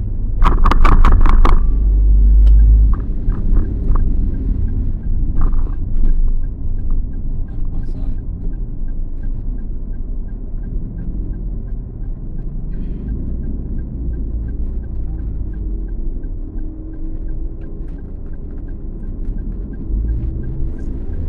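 Car cabin road rumble while driving. Near the start comes a quick string of sharp clicks, the loudest sound here. From about six seconds a light, even ticking runs about twice a second, like a turn-signal indicator.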